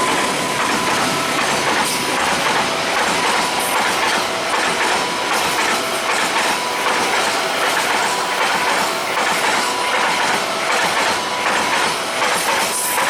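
Train cars rolling past close by, their wheels clattering in a steady rhythm over the rail joints, with a thin steady whine running above the clatter.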